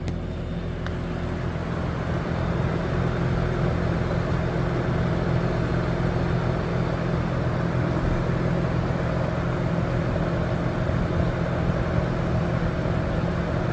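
Air-conditioning system running steadily under test: a constant low mechanical hum with an even rush of air over it.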